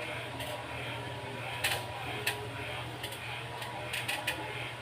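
A series of irregular short clicks and clacks, about eight in all, over a steady low hum.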